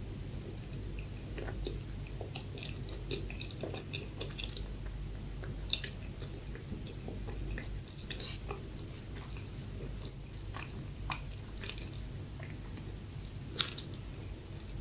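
Close-miked chewing of soft bread: moist mouth sounds and small scattered clicks, with one sharper click near the end, over a steady low hum.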